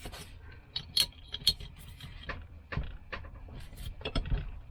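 Hand tools clicking and knocking on metal as the 10 mm cylinder head bolts of a Mobylette AV7 moped engine are undone; about seven sharp, irregular clicks.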